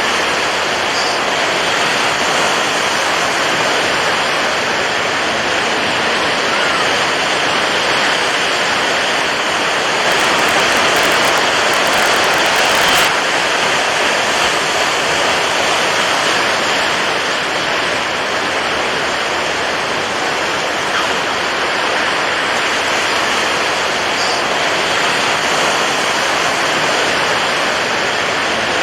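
Steady, continuous rushing of water, swelling slightly for a few seconds near the middle.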